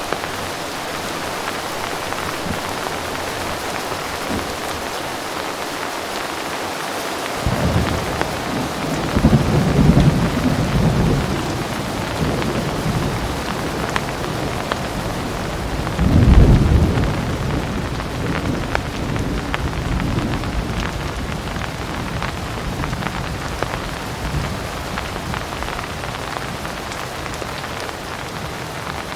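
Steady heavy rain, with thunder rolling in: a low rumble builds about a third of the way in, and a louder roll comes a little past the middle, then fades back under the rain.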